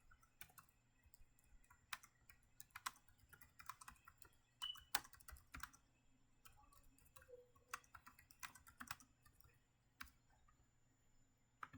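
Faint, irregular keystrokes on a computer keyboard, with a few sharper clicks among them.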